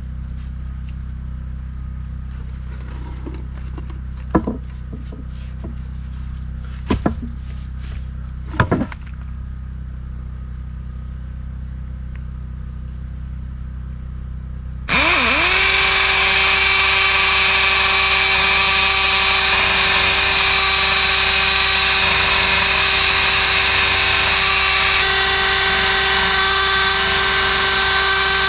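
Power drill starting suddenly about halfway through, spinning up and then running steadily under load while drilling into poured concrete to mount post bases. Before it starts there are a few separate knocks over a low steady hum.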